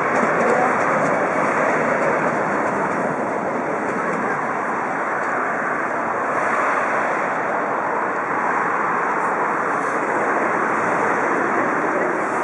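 Steady rushing noise with no clicks or beat: passenger coaches rolling away over the tracks, mixed with wind on the microphone.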